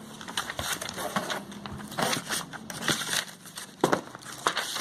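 Packaging of a new hair dryer being handled: irregular crinkling and crackling rustles with small knocks.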